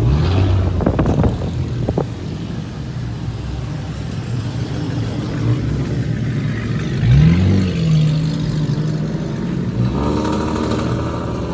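Car engine running, with a short rev that rises and falls in pitch about seven seconds in; a louder, buzzing engine note comes in near the end.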